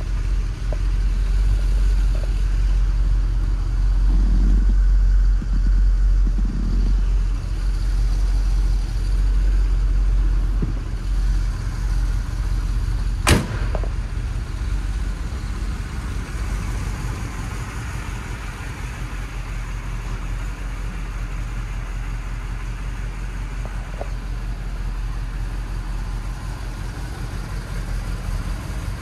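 1978 Chevrolet Corvette's 350 V8 idling steadily, with one sharp click about 13 seconds in.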